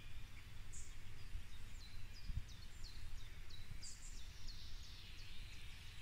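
A small songbird singing a long series of short, high, down-slurred notes, about three a second, over a faint low rumble.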